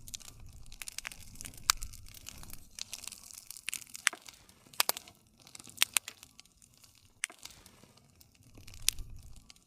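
Wood campfire crackling: irregular sharp pops and snaps over a low steady rumble of the flames. The loudest pops come about two seconds in, then around four, five and six seconds in, and again near the end.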